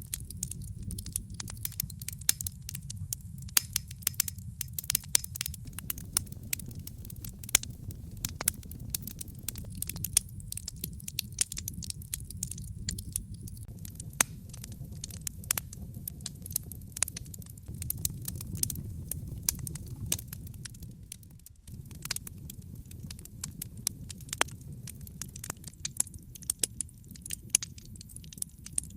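Wood fire in a fireplace crackling, with frequent irregular sharp pops and snaps over a steady low rumble of burning; the rumble dips for a moment about three-quarters of the way through.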